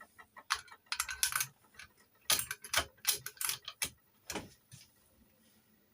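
Key blank being worked in a Chubb detector lever lock during impressioning: an irregular run of sharp metallic clicks and rattles as the levers move, stopping near the end.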